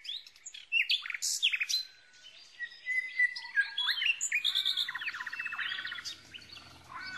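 Several birds calling and singing at once: many quick chirps, rising and falling whistles, and a fast trill about midway.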